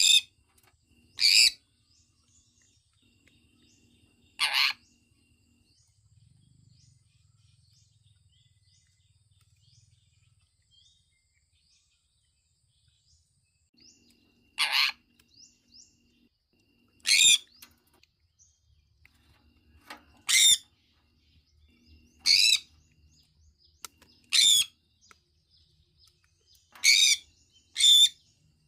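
Sun conure giving short, shrill chirps, about ten in all, singly and in quick pairs, with a long pause between the first few and the rest.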